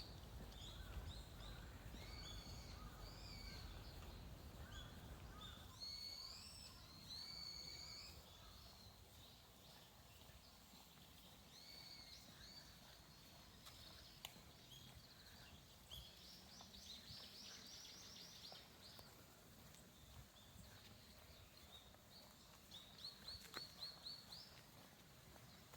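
Small birds singing faintly: scattered short whistled chirps and phrases, a fast trill about two-thirds of the way through and a quick run of repeated notes near the end. A low rumble sits under the song in the first few seconds.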